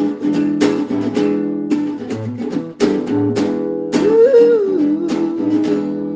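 Acoustic guitar strumming chords in a steady rhythm, with a short sung 'ooh' near the end.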